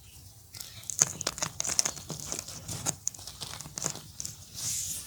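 Block of gym chalk crumbling and crushing between fingers: a quick run of dry crackles and crunches, easing into a softer powdery rustle near the end.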